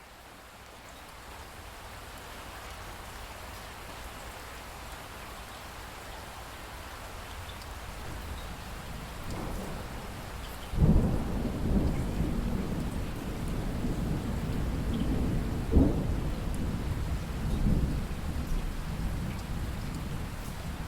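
Steady rain fading in, then a thunderstorm: about halfway through, a sudden loud clap of thunder followed by a long low rumble, with a second sharp peak of thunder a few seconds later over the continuing rain.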